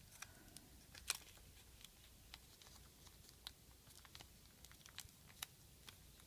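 A sheet of origami paper being handled and folded by hand: scattered faint crinkles and ticks, the loudest about a second in.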